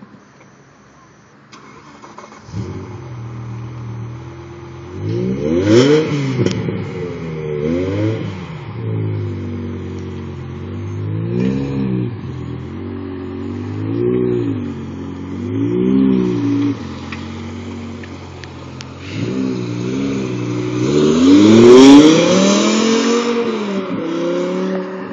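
BMW M6 engine starting up about two and a half seconds in, then idling between a series of short throttle blips, each revving up and falling back; the longest and loudest rev comes near the end.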